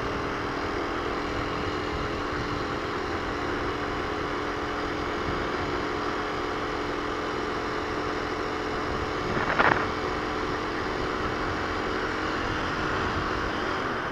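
Kawasaki KLX250 single-cylinder four-stroke engine running at a steady speed under the rider, with heavy wind rumble on the helmet-mounted microphone. A brief louder rush about two-thirds of the way in.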